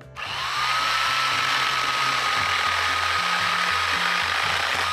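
Corded electric chainsaw (GreenWorks 10-inch, 6 A pole saw in handheld mode) spinning up with a rising whine, then running at a steady pitch with its chain cutting through rotten wood.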